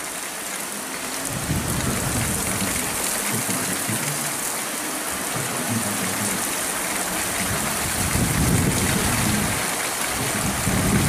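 Heavy monsoon rain pouring steadily in a dense hiss, with a low rumble that swells and fades underneath. The rain grows louder about a second and a half in and again near the end.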